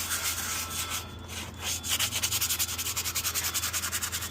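Abrasive being rubbed by hand over the rusty metal of a go-kart seat, scraping off the rust. The scraping settles into quick, even back-and-forth strokes, about five a second, from about two seconds in, over a steady low hum.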